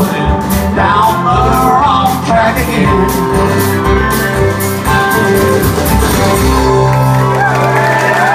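Live country-rock band playing the instrumental outro of a song, drums keeping a steady beat under gliding lead lines, then settling about seven seconds in onto a long held final chord.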